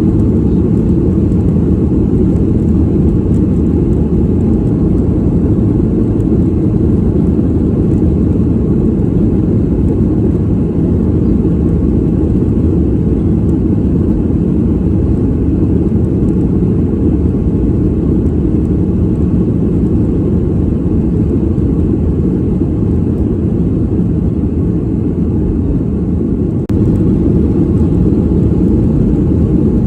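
Airliner cabin noise heard from a passenger seat: a loud, steady, low rumble of engine and airflow in flight, with a momentary drop in level near the end.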